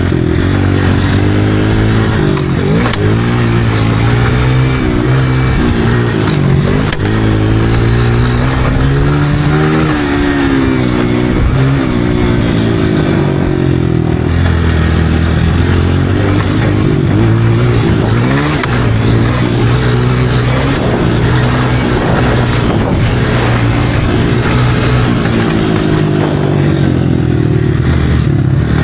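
Dirt bike engine revving up and down over and over as it is ridden, its pitch climbing and dropping every second or two.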